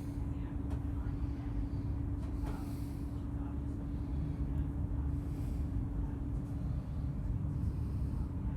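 Inside a passenger train carriage: the steady low rumble of the train running, with a constant hum and a few faint clicks.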